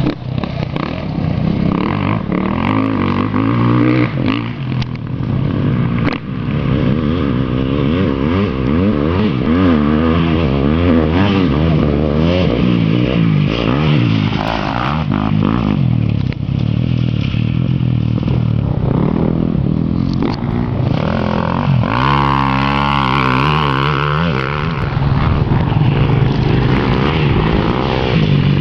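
KTM 250 SX-F motocross bike's single-cylinder four-stroke engine running hard around a track, its pitch rising and falling repeatedly as the throttle is opened and closed through corners and gear changes.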